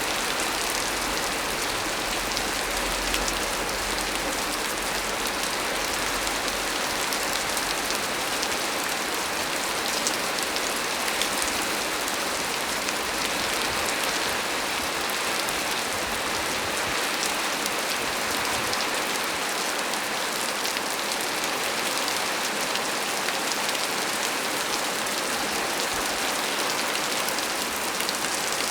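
Heavy rain falling steadily on leaves: a dense, even hiss with scattered drop patter.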